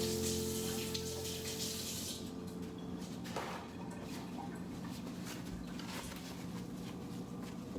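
Water running from a tap for about two seconds, then stopping, followed by a few light knocks.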